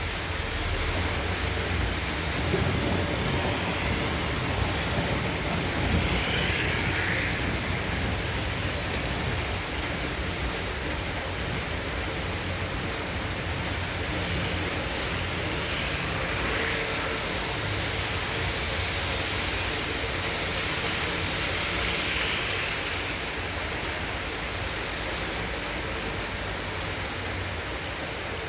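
Heavy tropical downpour: dense, steady rain hiss.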